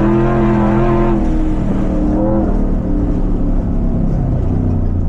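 Prerunner race truck's engine running hard under throttle, its pitch rising and falling as it is revved and let off.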